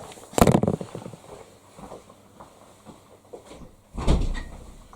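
Hoover Dynamic Next front-loading washing machine door being pushed shut: a sharp knock about half a second in, then a heavier thud about four seconds in as it closes.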